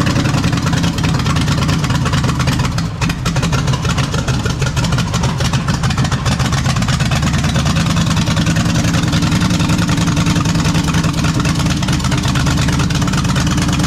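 NASCAR small-block V8 race engine with a roller cam, running steadily in the Mazda B1600 pickup, loud and even.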